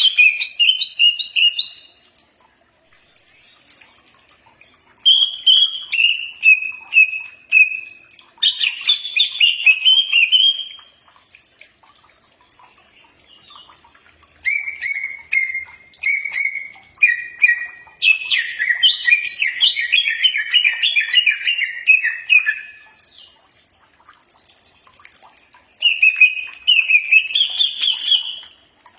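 Cucak ijo (green leafbird) singing in about five bursts of quick, repeated, sliding notes with pauses of a few seconds between them. This is masteran song, the kind played to caged songbirds for them to learn and answer.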